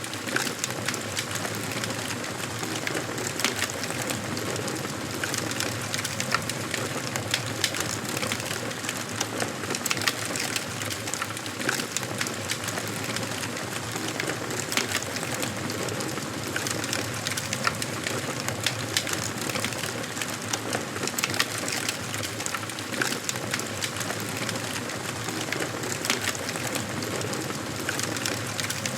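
Wood fire crackling in a fireplace: a steady hiss with many small, irregular pops and snaps from the burning logs.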